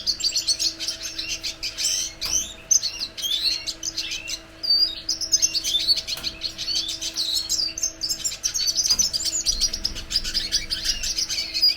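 Red siskin (Venezuelan cardenalito) singing a long, fast twittering song of quick chirps and trills, with a short break about four seconds in.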